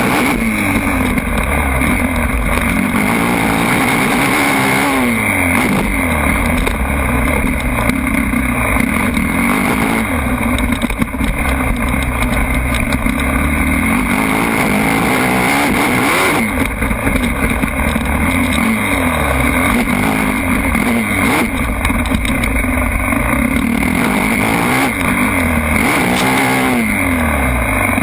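Motocross bike engines revving, the pitch climbing and dropping again and again as the throttle is opened and closed.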